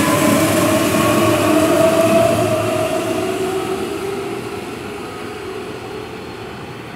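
Keihan electric commuter train on the move: traction-motor whine rising slightly in pitch over rail and wheel noise, then fading as the train draws away.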